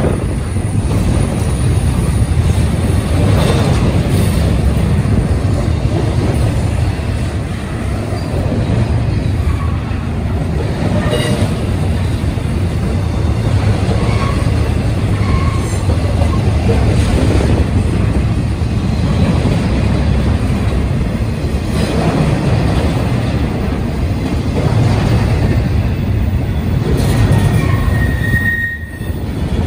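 Double-stack intermodal train's loaded well cars rolling past: a steady rumble of steel wheels on rail, broken by scattered clicks and a few brief wheel squeals, the plainest near the end.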